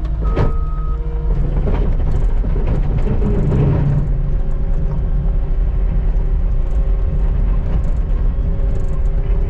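Skid steer engine running with a steady, loud drone, and a single short reversing-alarm beep in the first second.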